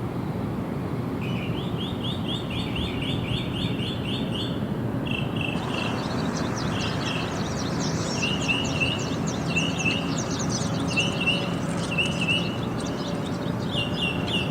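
Songbirds singing: one repeats short chirping phrases again and again, and a second, higher, faster series of notes joins about a third of the way in, over a steady low background noise.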